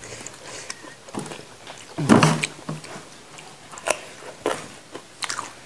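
Close-up mouth sounds of people biting and chewing crunchy raw fruit dipped in sambal (young mango and bitter melon rujak): scattered crisp bites and wet chewing clicks, with one louder crunch about two seconds in.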